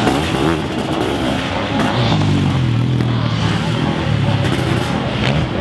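Sidecarcross outfits' engines revving on a motocross track, the pitch rising and falling as they race.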